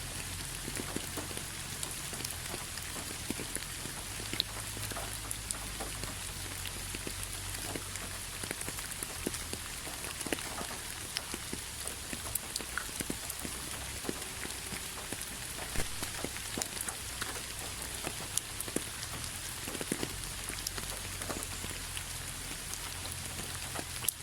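Steady rain falling, a constant hiss with many separate drops ticking sharply and irregularly.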